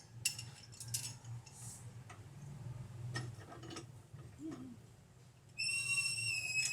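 Light clicks and clinks over a low steady hum; about five and a half seconds in, a steady high-pitched whistle starts and holds.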